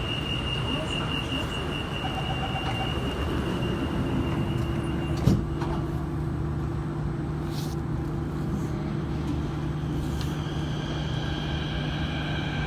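Inside a CT251 metro train: a steady rumble with a high whine that fades out about five seconds in, one sharp knock at that point, then a low steady hum and new high whining tones near the end.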